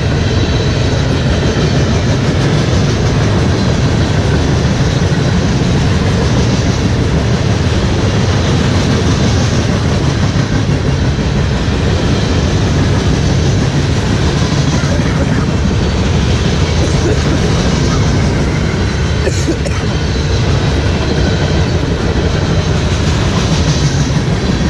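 Loaded freight cars of a passing freight train rolling by close at hand: a steady, loud rumble and clatter of steel wheels on the rails.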